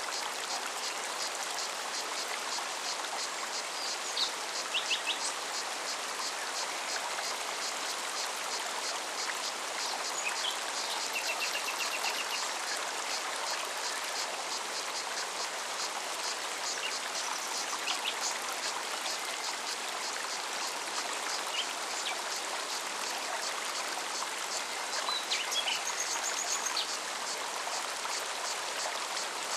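Forest stream flowing steadily, with a cicada's fast, even pulsing song over it. Small songbirds give short chirps, with a quick trill about a third of the way in and more calls near the end.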